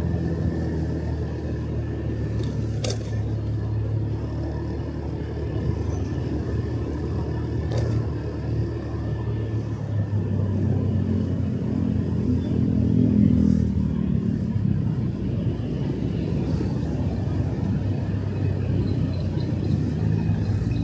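Motorcycle engine running steadily under way, a low hum that swells for a few seconds around the middle. Two sharp clicks sound, about three and eight seconds in.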